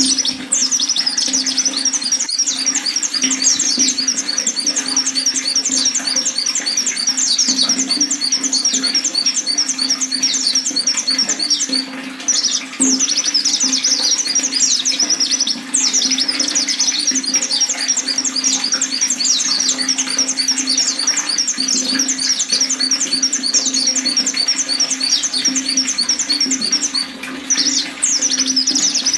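White-eye (pleci) singing long, very rapid high-pitched chattering trills, each phrase running for several seconds with brief pauses between, over a steady low hum.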